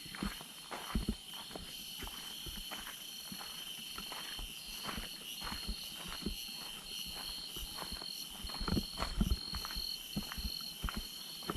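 Rainforest insects calling in a steady, high pulsing drone, about two pulses a second, over scattered clicks and rustles that are heaviest about nine seconds in.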